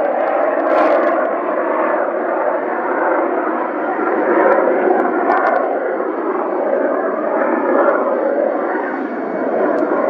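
Airplane engine noise, loud and steady, swelling and easing slightly, as a fixed-wing aircraft runs or passes.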